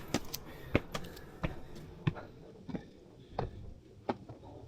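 Footsteps in slippers climbing stone steps at a brisk, even pace, one short sharp footfall about every two-thirds of a second.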